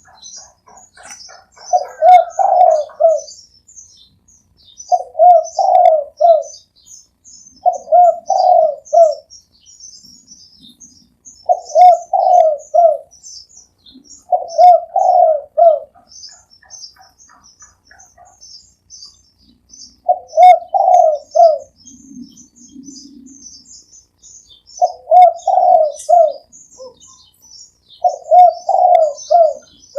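Spotted dove cooing: a short phrase of three or four coos, repeated about every three seconds. Steady high chirping of small birds carries on behind.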